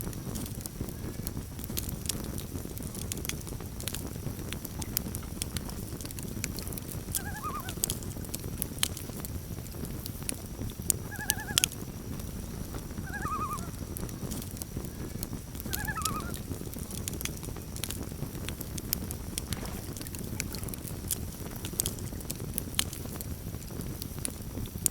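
Campfire crackling and popping over a steady low rumble, with sharp pops scattered throughout. Four short bird calls sound faintly behind the fire, about a quarter, halfway and two-thirds of the way through.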